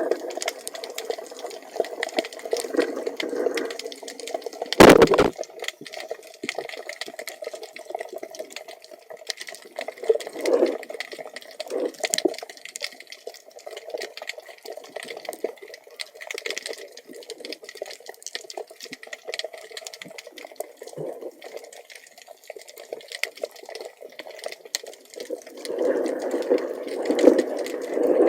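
Muffled water sloshing and bubbling against an action camera in its waterproof housing, during underwater spearfishing, with scattered small clicks. One sharp knock about five seconds in, and louder sloshing near the end.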